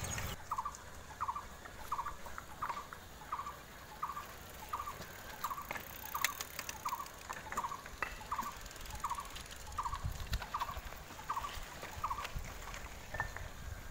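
A bird calling the same short note over and over, evenly about once every 0.7 seconds, stopping near the end.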